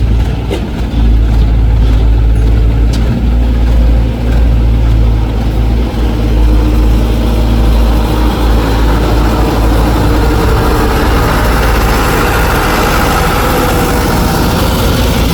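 Excavator's diesel engine running steadily with a deep drone, a few clicks early on, and a harsher mid-range noise building from about eight seconds in as the machine works.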